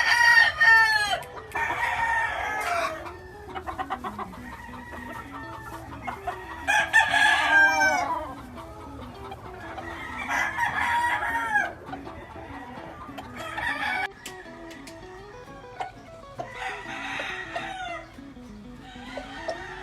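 Gamefowl roosters crowing again and again, a crow every few seconds with some overlapping, the loudest right at the start and around seven seconds in.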